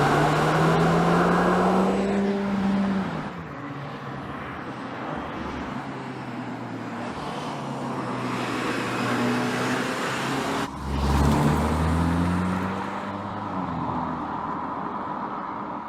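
2020 Audi S3's turbocharged 2.0-litre four-cylinder engine and exhaust under acceleration: the pitch climbs, drops as the driver eases off about three seconds in, then runs steadier. A brief break near eleven seconds is followed by a louder, deeper surge as it pulls again, then it eases off.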